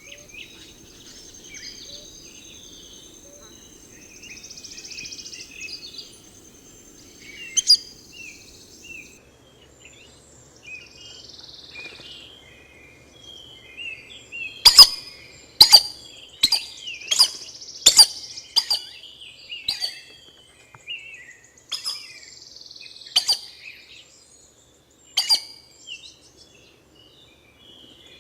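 Birdsong: a bird gives a run of sharp, loud, high calls, about one a second, through the second half, over softer chirps of other birds. A steady high tone carries through the first third.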